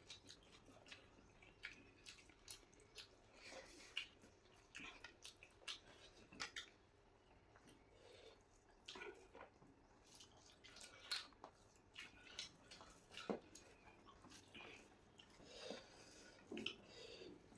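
Faint eating sounds: wet chewing and lip smacks, with short clicks scattered irregularly throughout.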